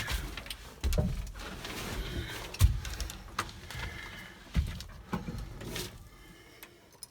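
Irregular clunks and knocks of someone handling the truck's cab and door; the engine is not yet running.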